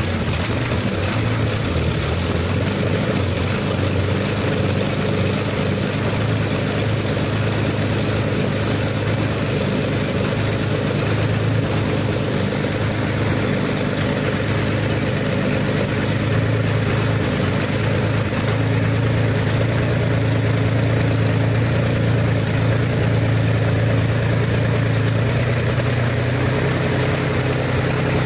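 Rolls-Royce Merlin Mk 25 27-litre V12 aero engine running steadily at low idle under no load. It is normally aspirated through a single Holley carburettor, with its supercharger removed.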